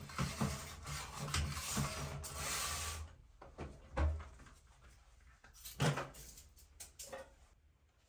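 Household handling noises: rubbing and scraping with scattered knocks for the first three seconds, then a single knock and a short burst of clatter around six seconds in.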